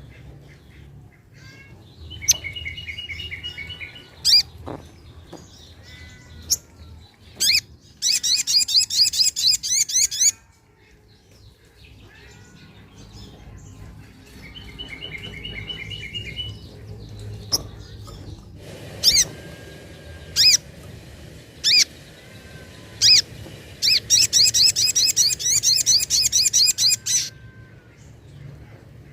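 Little spiderhunter (sogok ontong) song: sharp single high calls, a short doubled trill, then long, very rapid high-pitched trills. The sequence repeats twice, like a looped lure recording.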